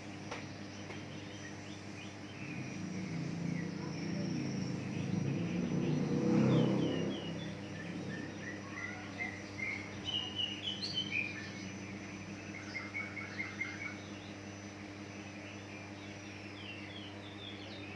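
Cucak ijo (green leafbird) singing a run of quick, varied chirping and warbling notes, thickest in the second half. A low rumble of a passing vehicle swells and fades about a third of the way in, over a steady background hum.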